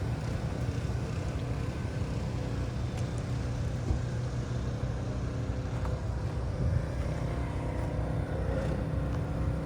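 Steady low outdoor rumble with no clear events, the kind heard from wind on the microphone and traffic.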